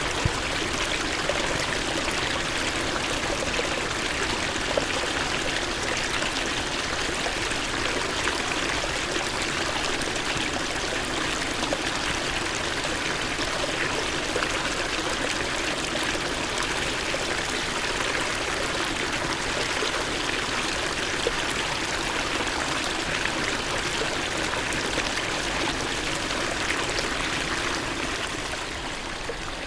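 Steady flowing water, like a stream running, with small splashing ticks through it; it fades down near the end.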